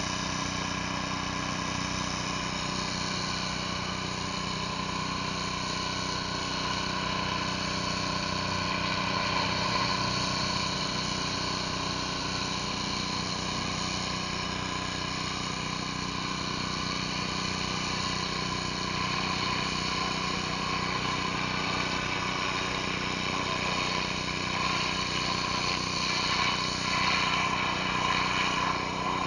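Pressure washer's engine running steadily, with the hiss of high-pressure water from a surface cleaner working over concrete.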